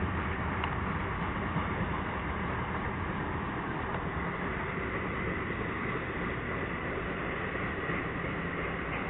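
Norfolk Southern freight train rolling past slowly, a steady even noise with no distinct clanks or horn.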